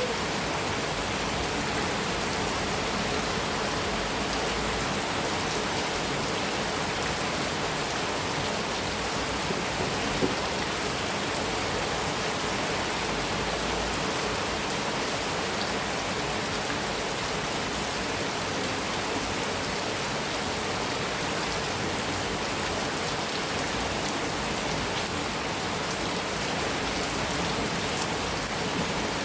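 Heavy rain falling steadily on a metal roof, an even dense patter, with one sharper single tap about ten seconds in.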